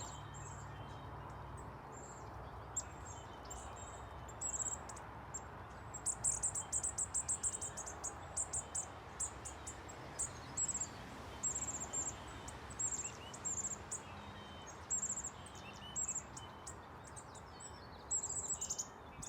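Small songbirds calling in the trees: many short, very high, thin chips and a quick trill of about a dozen notes, over a steady background hiss.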